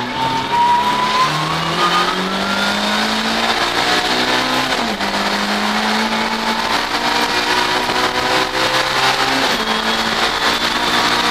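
Race car engine at high revs, heard from inside the cabin. The pitch climbs over the first few seconds, then holds high, dipping briefly about five seconds in and again near the end.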